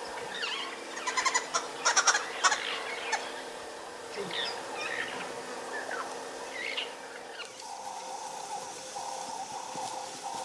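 Wild birds calling and chirping, loudest in a burst of rapid rattling calls between about one and three seconds in. Near eight seconds a lower call sets in and repeats.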